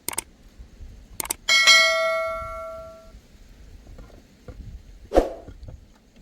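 A metal object struck once, clanging and ringing out for about a second and a half, after a few light clicks; a dull thud about five seconds in.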